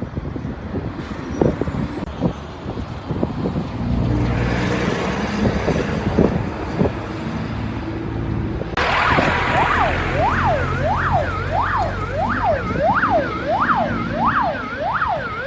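Vehicle and engine noise with a few knocks, then about nine seconds in an emergency vehicle's siren starts up. It goes in a fast yelp, sweeping up and down about twice a second, and keeps going.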